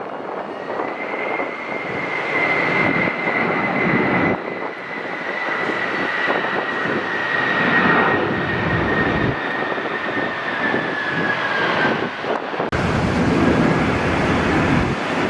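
Jet airliner's engines passing with a rushing roar and a high fan whine that slowly drops in pitch, then fades about twelve seconds in, with wind buffeting the microphone.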